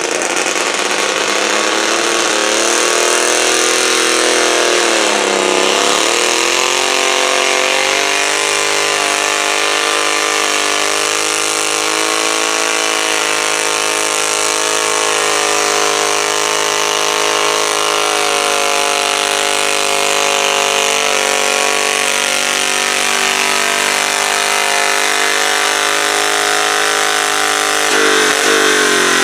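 Garden pulling tractor's engine running hard at high revs. Its pitch sags and climbs back about five seconds in, then holds steady for the rest of the run.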